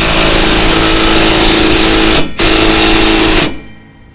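Power drill driving truck-bed screws: a loud, steady motor whine that pauses briefly about two seconds in, runs again and stops about a second later.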